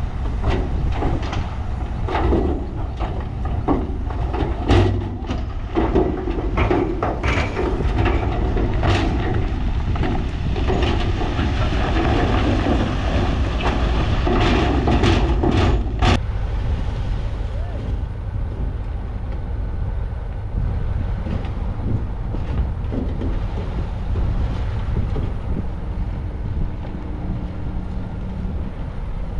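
Heavy earthmoving machinery running with a deep diesel rumble while rock clatters and knocks again and again. About sixteen seconds in the knocking stops and the engine rumble goes on more steadily.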